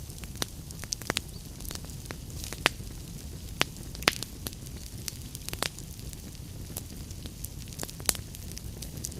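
Wood fire in a fireplace crackling, with irregular sharp pops and snaps over a low, steady rumble of flame.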